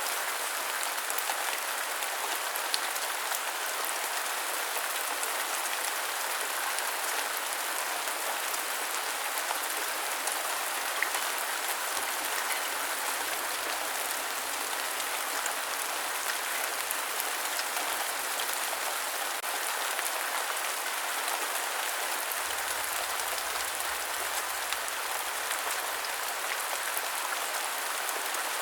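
Steady rain falling, an even hiss with scattered small drop ticks, no deep low end.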